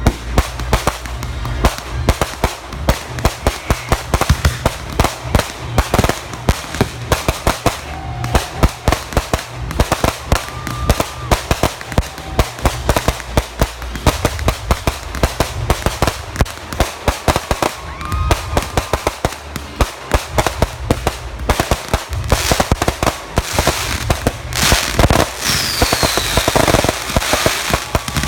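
Backyard consumer fireworks finale: a dense barrage of bangs and crackling bursts, several a second without a break. Near the end a whistle falls in pitch.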